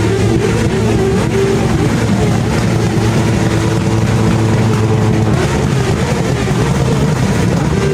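Motorcycle engines running steadily, their pitch wavering slightly without any sharp revving.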